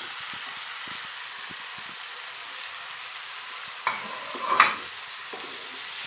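Onion, tomato and ginger-garlic-chilli paste sizzling steadily in hot mustard oil in a frying pan while being stirred with a spatula. There are two louder spatula scrapes against the pan a little past halfway, the second the loudest.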